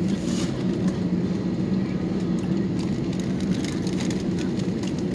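Steady low hum of an Airbus A321's cabin at the gate before pushback, with the engines not yet started: the air-conditioning and ventilation drone, holding a couple of low tones. A few faint clicks sound over it.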